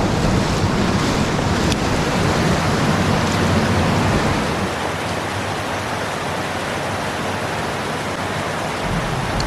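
Steady rush of a mountain headwater stream's flowing water, a little louder in the first few seconds.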